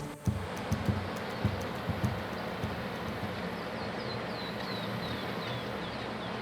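Steady outdoor rushing background with a few sharp knocks in the first two seconds. About halfway through, a small bird sings a quick run of about ten short, high, falling whistled notes that step gradually lower.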